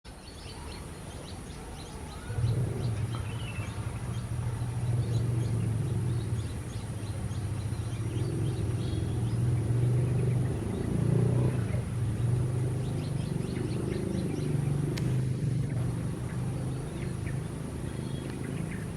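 A car engine running steadily, coming in suddenly about two seconds in, with small birds chirping faintly over it.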